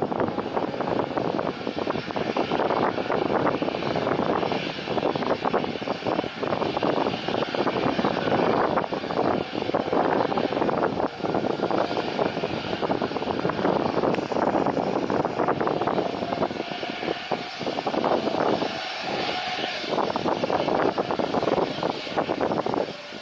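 Fixed-wing aircraft engines running steadily and loudly. A steady whine shows for a few seconds past the middle.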